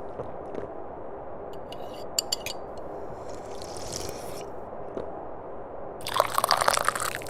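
A person slurping a sip of tea, loud for about a second near the end. A few light clicks come around two seconds in, over a steady low background.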